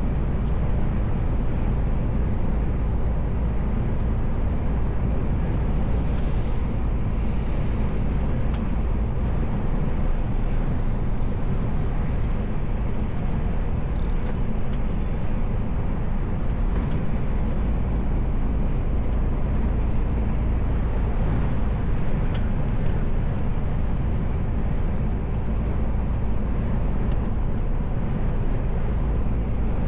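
Mercedes-Benz Actros L truck on the move, heard from the cab: steady engine and road noise, heavy in the low end. A brief hiss comes in about six seconds in and lasts a couple of seconds.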